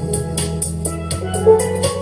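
Instrumental calypso backing music: steelpan melody over bass and a drum beat.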